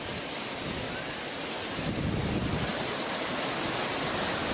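Steady rushing roar of fast-flowing floodwater, a little louder from about two seconds in.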